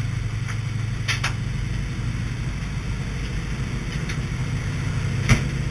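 An An-2's nine-cylinder radial engine droning steadily, with a couple of faint clicks about a second in and a sharp knock near the end.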